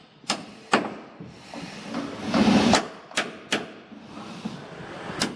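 A hammer striking wood, about five separate blows at an uneven pace, as in nailing or pegging the timbers of a wooden boat. A louder scraping rush comes about two seconds in.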